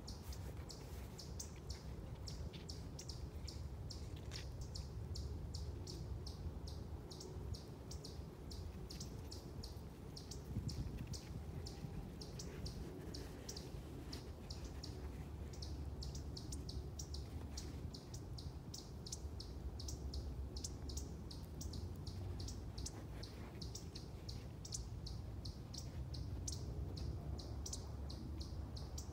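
Birds chirping: short high chirps repeated about three times a second, over a steady low rumble.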